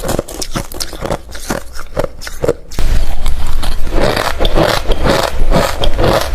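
Hard refrozen crushed ice being bitten and crunched in the mouth, a fast irregular run of crunches that gets louder and denser about three seconds in.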